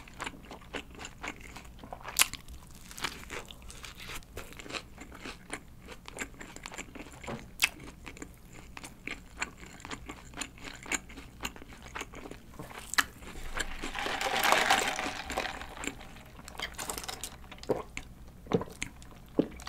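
Close-miked biting and chewing of a sesame-bun burger with lettuce: repeated wet, crunchy mouth clicks, with a longer, louder noisy stretch about fourteen seconds in.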